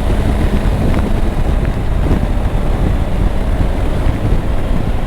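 Steady wind rush on the rider's microphone while riding a Triumph Tiger 900 motorcycle at highway speed, with engine and road noise underneath.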